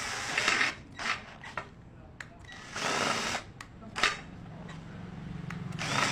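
Ken 12V cordless drill driver boring through thick steel in several short bursts, the bit screeching against the metal. From about four seconds in, a steady low hum joins it.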